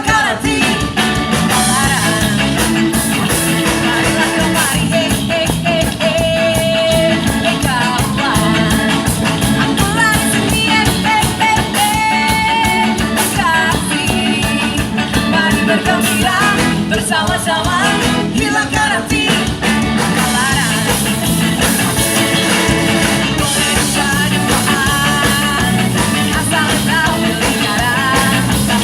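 A ska band playing a loud, fast rock-ska song with singing over a steady drum beat.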